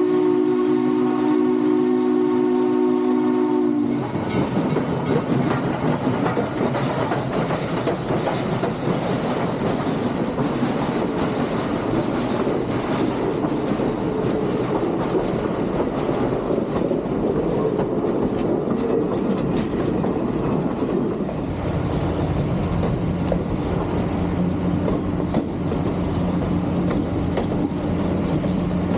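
A train's whistle sounds a long chord that cuts off about four seconds in. The train then rolls past with a steady clatter of its wheels on the rails, and a steady low hum joins in near the end.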